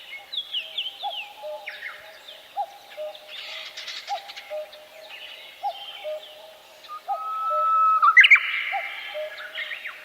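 Several birds singing and calling at once: quick chirps and falling whistles over a low, short note repeated about twice a second. A louder burst of song comes about eight seconds in.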